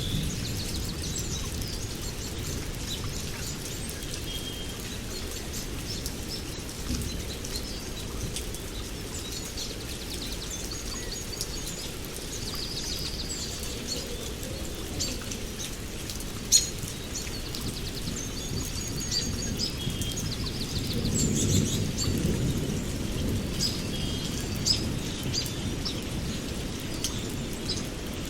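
Songbirds chirping and trilling in short, scattered calls over a steady low rumbling background that swells for a couple of seconds about three-quarters of the way through. A single sharp click comes a little past halfway.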